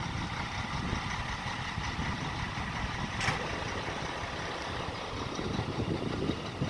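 Logging truck's diesel engine idling steadily, with wind buffeting the microphone as a fluttering low rumble. A single sharp click comes about three seconds in.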